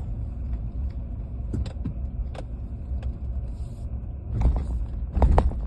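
Truck driving slowly, heard from inside the cab: a steady low engine and road rumble with scattered light clicks and rattles, and two louder knocks near the end.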